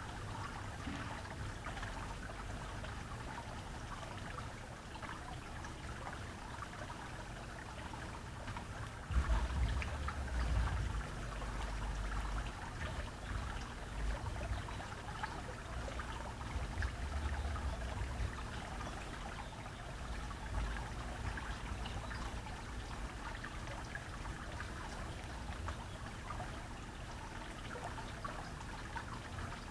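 Water trickling steadily, with a low rumble that swells from about nine seconds in and eases off later.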